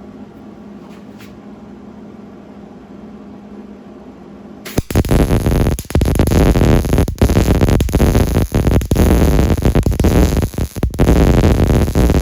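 Arc welder striking about a third of the way in and welding a washer onto an engine mount: a loud, steady crackle with a few brief breaks. The welder judges this weld poor, with too high an arc, and the settings in need of a tweak.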